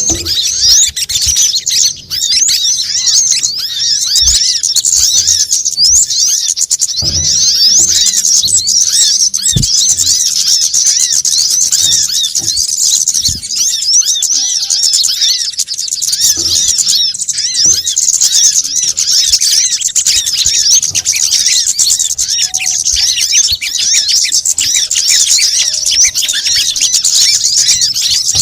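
Bird-lure recording of small songbirds: rapid, high-pitched chirps and trills from many birds overlapping without pause, a noisy twittering used to call birds in.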